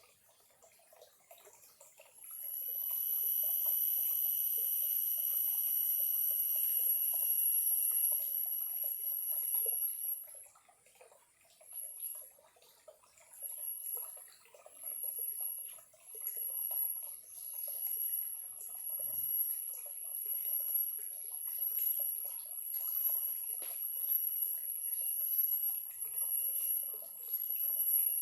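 A small clear stream trickling, with a shrill, high-pitched whine that starts about two seconds in and holds steady, then breaks into pulses about once a second.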